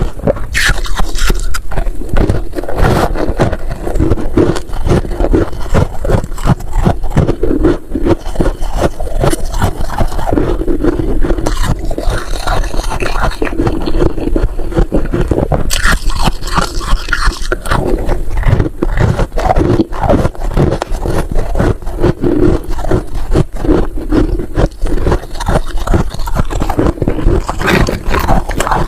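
Freezer frost being chewed close to the microphone: dense, continuous crunching and crackling of the packed ice crystals.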